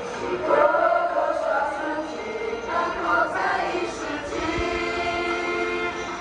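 A group of voices singing together as a choir, ending the phrase on a long held chord near the end.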